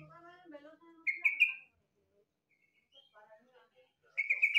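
Yellow-vented bulbul (trucukan) singing: two short bursts of rapid, loud notes, about a second in and again near the end.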